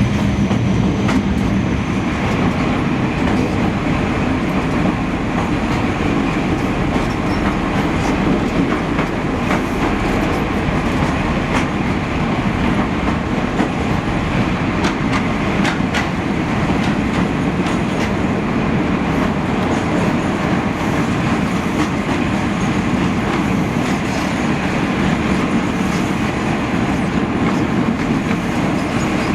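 A train running steadily along the track: a continuous rumble of wheels on rail, with a few sharp clicks at uneven intervals from the wheels passing over rail joints.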